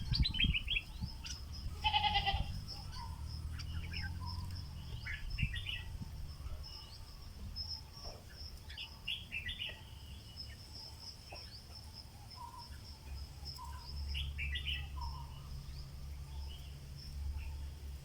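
Stripe-throated bulbul, a caged decoy bird, singing short phrases of quick bubbling notes every few seconds, with a steady high-pitched whine and a low rumble underneath.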